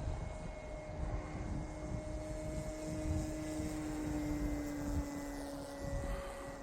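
Electric motor and propeller of an E-flite Carbon-Z Cessna 150T radio-control plane in flight at part throttle: a steady whine that sinks slightly in pitch, with wind rumbling on the microphone.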